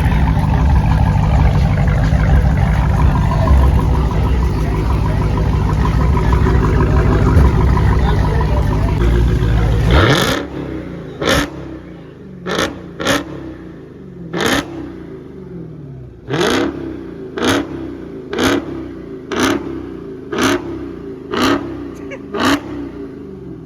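Straight-piped Dodge Hellcat's supercharged V8, loud and running hard for about the first ten seconds. It then drops back to idle and is blipped sharply about a dozen times, roughly once a second.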